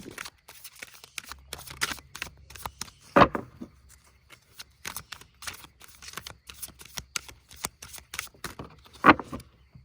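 A tarot deck being shuffled and handled: a run of quick card riffles and rustles, with two louder taps, one about three seconds in and one near the end.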